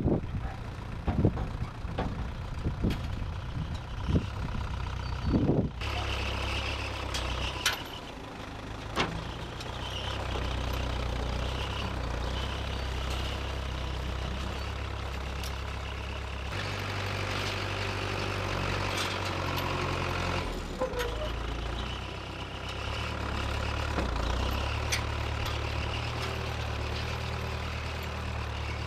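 1968 Case backhoe's engine running steadily, its pitch and load shifting a couple of times, once around the middle and again a few seconds later. Before the engine settles in, about six seconds of irregular low knocks and bumps.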